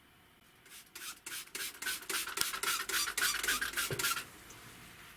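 Quick repeated rubbing strokes of a hand scraping or rubbing a part, about four a second, starting about a second in and stopping at about four seconds.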